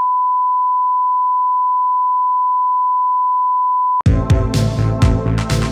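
A steady pure test tone held at one pitch, like a broadcast line-up tone, cutting off abruptly about four seconds in. Electronic music with a heavy beat starts straight after it.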